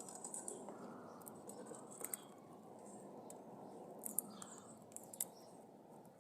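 Maritaca parrots making scattered sharp clicks and a few short, very high squeaks over a steady low hiss.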